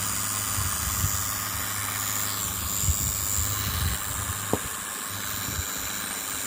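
Toy drone airplane's small electric motor and propeller running with a steady high whine and hiss, the whine shifting pitch slightly a couple of times. A few low bumps and one sharp click about four and a half seconds in.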